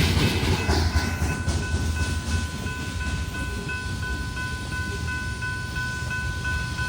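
Train passing, its low rumble fading over the first second or two, while a high ringing tone repeats rapidly and steadily.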